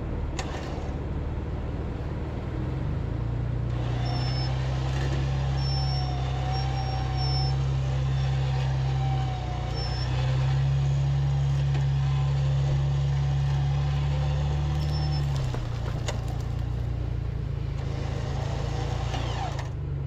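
Vehicle engine running. Its revs rise about three seconds in and hold there under a thin whine, then fall back to a lower steady note near the fifteen-second mark.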